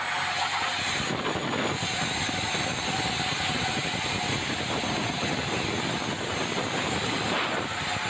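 Sawmill machinery running steadily as it saws red meranti timber, a dense continuous mechanical noise.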